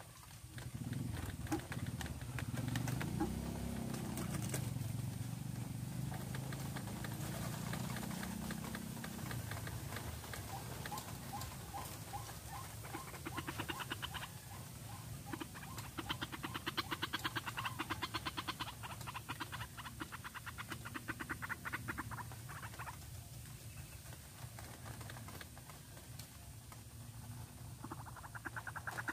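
White-breasted waterhens calling: long runs of rapid, evenly repeated notes, with a lower, deeper call in the first several seconds.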